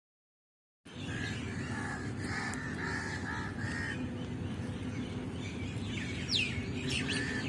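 Birds chirping and calling over a steady low background noise. It starts abruptly about a second in, with a run of short repeated notes early and a few sharp falling whistles near the end.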